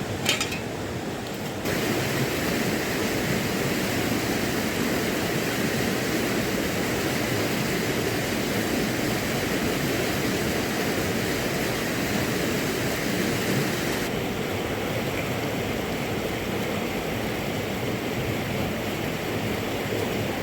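Steady rushing water noise, getting louder and fuller a couple of seconds in and a little duller about two-thirds of the way through, with a short click just after the start.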